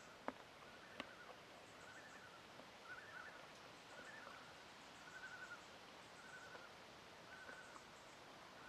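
Faint wilderness ambience: a small animal gives a short call over and over, about once a second, with two sharp clicks in the first second.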